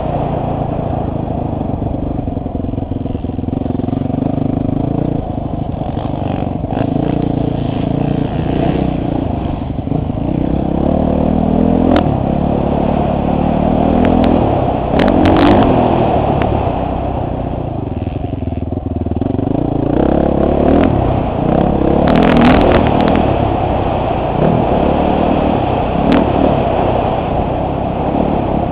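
Motocross bike engine revving up and down as it is ridden around a dirt track, heard from a helmet-mounted camera. A few sharp knocks come through, about twelve seconds in, around fifteen seconds, and again a little after twenty-two seconds.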